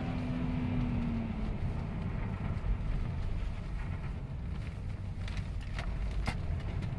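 Subaru Impreza STI's turbocharged flat-four engine heard from inside the cabin, its note easing off and fading in the first second or so, under a steady low rumble of the car on the snow-covered track as it slides sideways. A few sharp clicks come about five to six seconds in.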